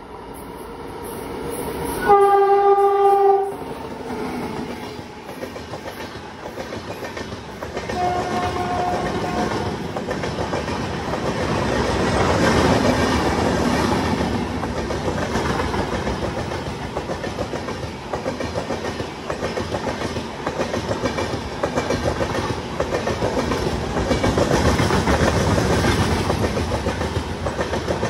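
WAP-7 electric locomotive's horn sounds one blast of about a second and a half, then the express runs through at speed, its LHB coaches' wheels clattering rhythmically over the rail joints, louder as the coaches pass close by.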